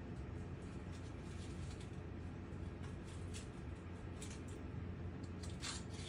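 Faint, scattered short scratches and taps over a steady low hum, coming thicker and louder near the end.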